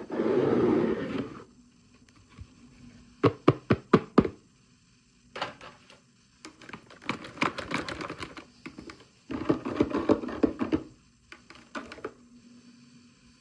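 Packaging of a miniature toy being handled and opened: bursts of rustling and a quick run of sharp clicks and taps.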